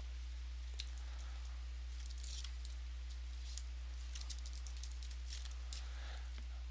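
Trading-card box and pack packaging being handled and opened: scattered faint crinkling, tearing and small ticks, a little busier about two seconds in. Under it runs a steady low electrical hum.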